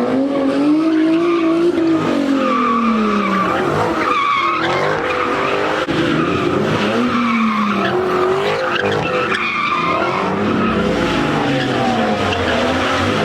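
A car doing burnouts or donuts, its engine revving up and falling back again and again while its tyres squeal steadily.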